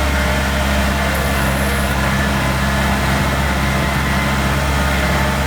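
Kubota DC70 combine harvester's diesel engine running at a steady pace, with a constant low hum.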